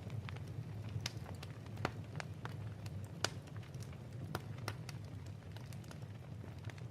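Fireplace ambience: a log fire crackling, with scattered sharp pops at irregular intervals over a steady low rumble.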